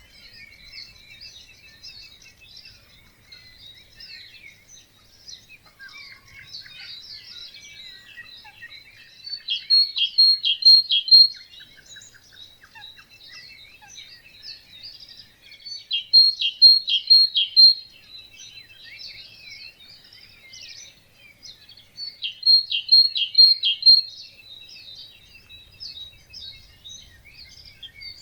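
Dawn chorus of many songbirds chirping and singing together. One bird's louder song, a short phrase of a few repeated notes, recurs three times about six seconds apart.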